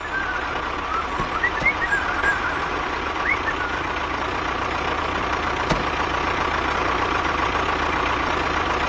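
A motor running steadily with a constant whine, a few short high chirps in the first three seconds and a single sharp click about halfway through.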